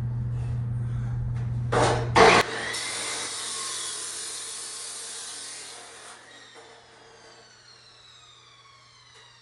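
A chop saw cutting bracing tube: the motor runs steadily, there are two loud clanks about two seconds in, then it switches off. A few seconds of hiss follow, and the whine falls in pitch as the blade spins down.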